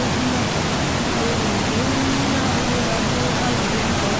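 Small waterfall: a steady, loud rush of falling and splashing water. Faint voices can be heard under it now and then.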